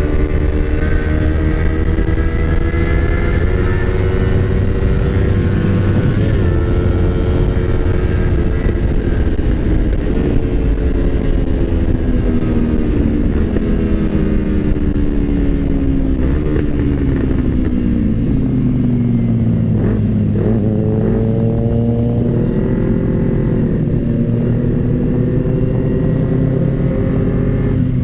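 Yamaha R25's parallel-twin engine running under a rider on the move, with a steady wind rush. The revs ease down over the middle through several gear changes, then build again in the last part.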